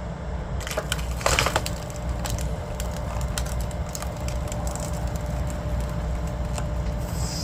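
A firewood log cracking and splintering as it is split. A loud burst of crackling comes about a second in, followed by scattered sharp cracks over a steady low engine drone.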